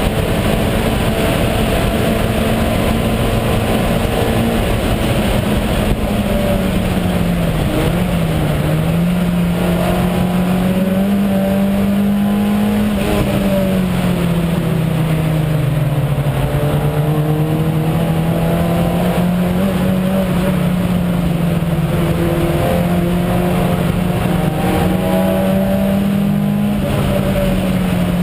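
Race-prepared VW Jetta's engine running hard at high revs, heard from inside the stripped cabin. The engine note sags briefly about 8 seconds in and again more slowly to about 16 seconds in, then climbs again.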